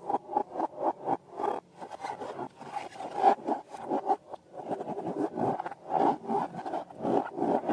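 Quick repeated rubbing and scraping strokes, about four a second at first, then faster and less regular.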